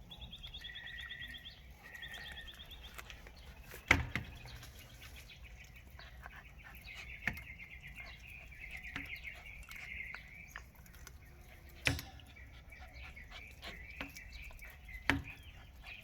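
Small songbirds chirping and trilling in quick repeated runs, with a few sharp knocks about four, twelve and fifteen seconds in.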